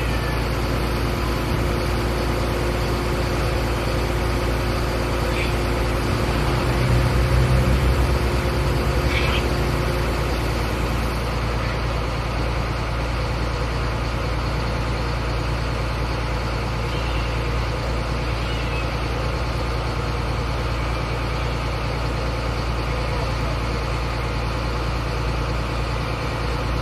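Fire truck engine idling steadily, a low hum that swells briefly about seven seconds in before settling back.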